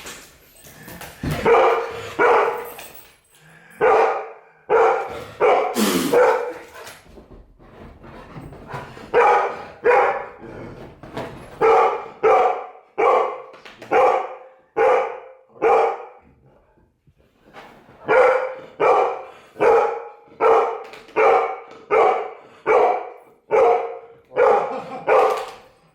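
Golden retriever barking over and over, about one bark every three-quarters of a second, in runs broken by short pauses.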